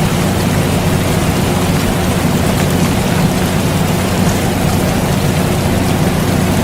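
Steady rain falling together with the constant running hum of an air conditioner: an even hiss over a low, unchanging hum.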